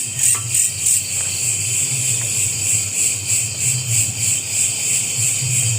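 A chorus of night insects chirping high-pitched in a steady pulse of about three beats a second, over a low, uneven rumble.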